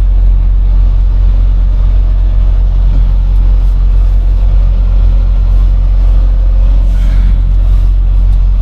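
Semi truck's diesel engine running while the truck is driven, heard from inside the cab as a steady low rumble.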